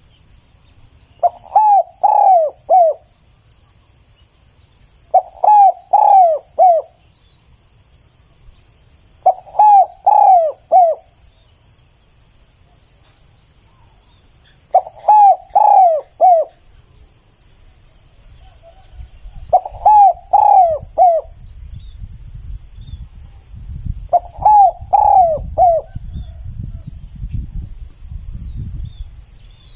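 Spotted dove cooing: six phrases of three or four coos each, repeated about every four to five seconds. Behind it a faint steady high chirring of insects, and a low rumble in the second half.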